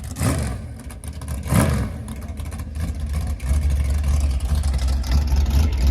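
Motor vehicle engine sounds: two short rushes of noise in the first two seconds, then a steady, louder low engine rumble from about three and a half seconds in.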